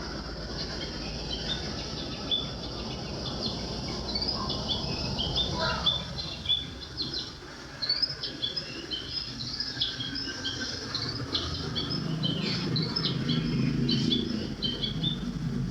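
Birds chirping in quick strings of short, high notes over a steady soft hiss. A low engine hum grows in the last few seconds.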